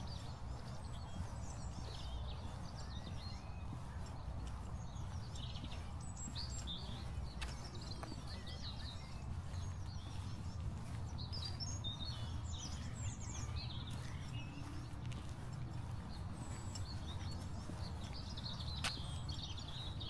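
Small songbirds chirping and twittering on and off, over a steady low background rumble, with a few faint taps.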